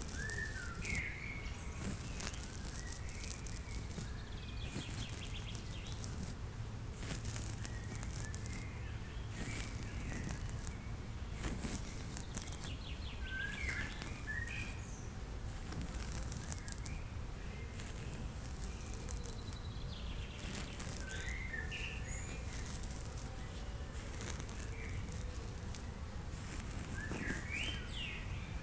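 Outdoor nature ambience: birds chirping in short phrases every few seconds over a steady low rumble, with brief scratchy bursts of noise in between.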